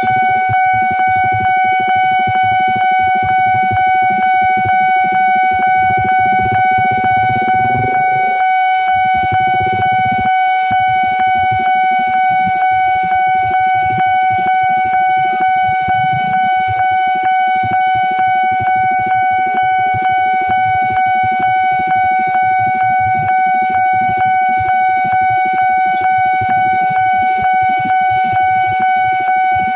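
Level-crossing warning alarm sounding continuously: one electronic tone pulsing at a fast even rate, meaning a train is approaching and the barriers are down. Under it, low rumbling traffic or train noise that eases off about eight seconds in.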